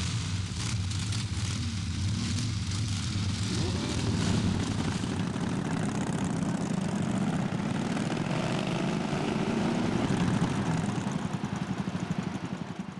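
Motorcycle engines running, their pitch rising and falling through the middle, fading out near the end.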